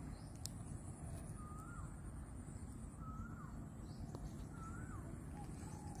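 A bird calling repeatedly, a short note that rises and then drops, three times about a second and a half apart, with fainter lower calls between. Under it is a steady low rumble and a faint high steady whine.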